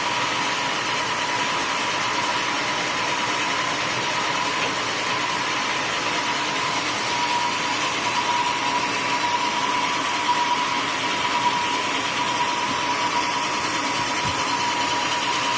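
Homemade sawmill running steadily: continuous machine noise with a constant high whine.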